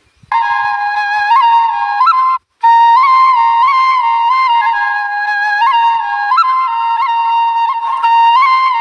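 Background music: a solo flute melody of held notes with quick ornamental flicks between them, cutting out briefly about two and a half seconds in.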